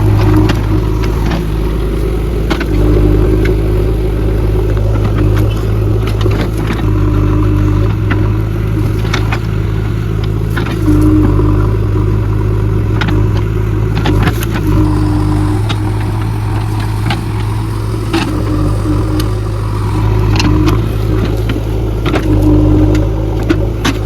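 JCB backhoe loader's diesel engine running steadily under varying load, with scattered clanks and scrapes from its working gear.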